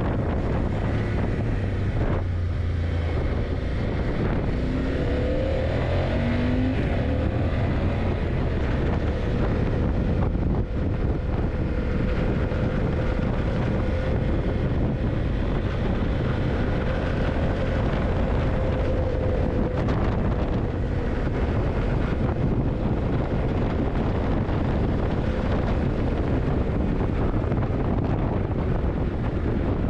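Yamaha TDM900's parallel-twin engine running while riding, mixed with heavy wind noise on the microphone. The engine note rises briefly a few times about five to seven seconds in, then holds steady for a long stretch.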